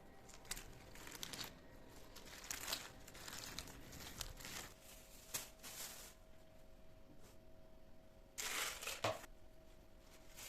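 Crinkling and rustling of something being handled, in a run of short bursts, the loudest about three quarters of the way through, over a faint steady hum.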